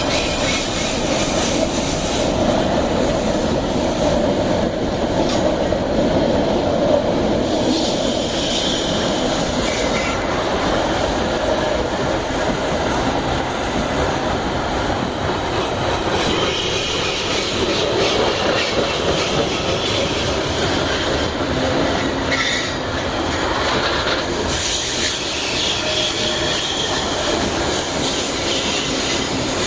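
Iron-ore freight train wagons rolling past on steel rails in a steady stream of wheel noise and rail joint clatter, with brief wheel squeals coming and going several times.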